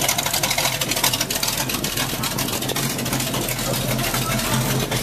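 Monster truck engine running steadily with a low, even hum and rapid pulsing.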